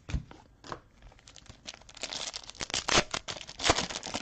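Trading card pack wrapper being torn open and crinkled in the hands, with a few light clicks at first and then a dense crinkling rustle with two sharp tearing peaks in the second half.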